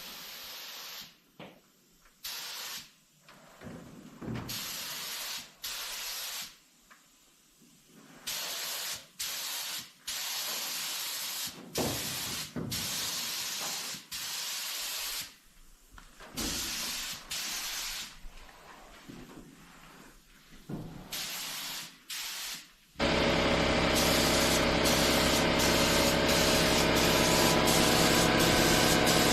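Paint spray gun hissing in short bursts of about a second each as the trigger is pulled and released again and again. About 23 seconds in, a louder steady mechanical hum starts suddenly and keeps going.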